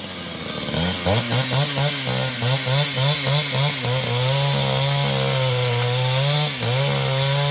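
Chainsaw cutting through wood. The engine rises about a second in, its pitch wavering rapidly as it bites into the cut, then runs at a steady pitch under load, dipping briefly near the end.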